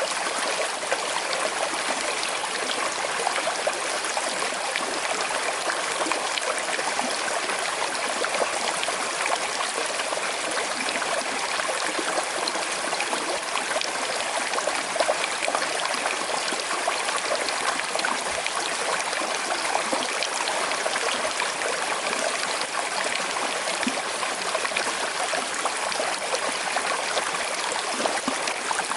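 Small river with a slight current flowing and trickling over stones, a steady splashing murmur with no pauses.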